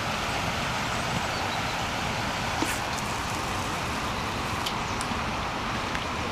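Steady rushing of water pouring over a weir into a pond, with a few faint ticks.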